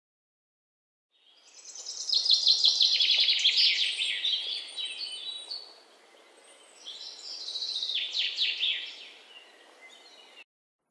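Birds singing: rapid runs of high chirping notes in two bursts, starting about a second and a half in, with a short gap in the middle, over a faint background hiss. The sound cuts off abruptly near the end.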